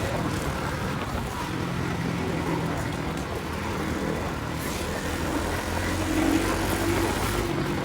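Motorcycle engine running while under way, with steady wind and road noise.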